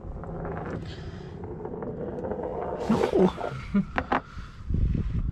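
Rustling handling noise against the camera microphone, with a short hiss about three seconds in and a couple of sharp clicks about four seconds in, as a camera is fitted to a head mount.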